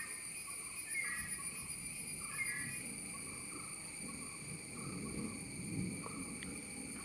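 Steady chorus of insects in the trees, a constant high shrill on several pitches, with a few short chirps above it and faint low rustling.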